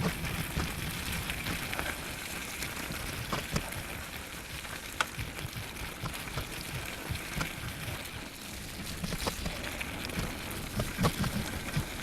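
Bicycle tyres rolling through wet slush and mud, with a steady spattering hiss of spray and scattered sharp ticks.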